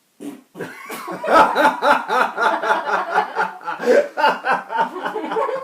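People laughing hard in quick, repeated bursts for about five seconds, a fit of giggling rather than speech.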